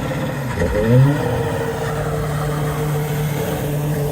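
A car engine at a meet exit revs up about a second in, then holds at a steady pitch.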